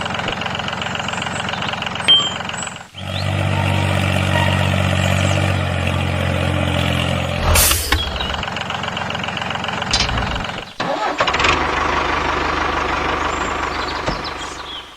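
Vehicle engine running steadily, cut off abruptly about three seconds in and again near eleven seconds, with a sharp knock in the middle and a smaller one a few seconds later.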